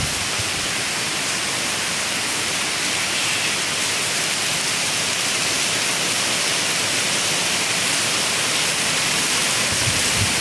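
Rain falling steadily, an even hiss with no separate drops standing out.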